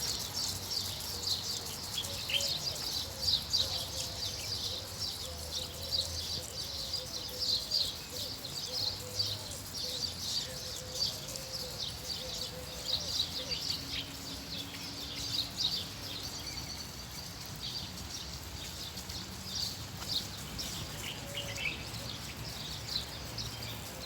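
Many small birds chirping continuously in a dense chorus of short, high calls.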